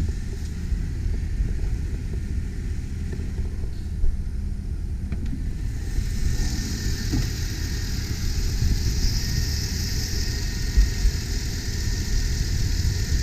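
The 2001 GMC Sierra 3500 HD's 8.1-litre V8 idling with a steady low rumble. A hiss joins about six seconds in.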